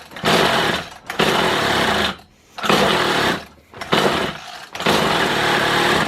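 Kawasaki hedge trimmer's small two-stroke engine firing on its new piston rings, running in about six uneven surges of roughly a second each with short dips between, then cutting out at the end.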